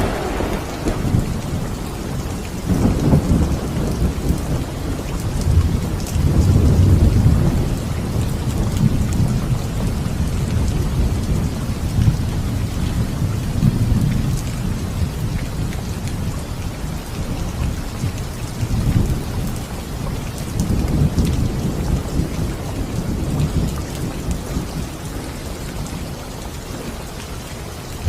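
Steady heavy rain with rolling thunder: it opens on the fading tail of a sharp thunderclap, then low rumbles swell and die away several times.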